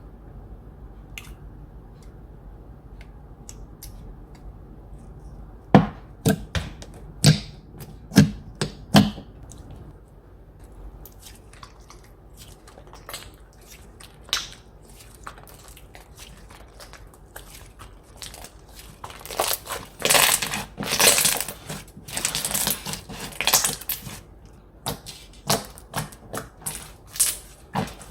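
Slime being squeezed and pressed by hand, making sharp clicks and pops, with a stretch of dense crackling crunches past the middle.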